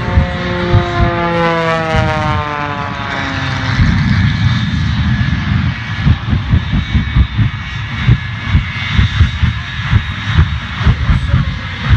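An aircraft flying past, its engine note dropping in pitch over the first few seconds. It then gives way to a steady low rumble, with gusts of wind buffeting the microphone.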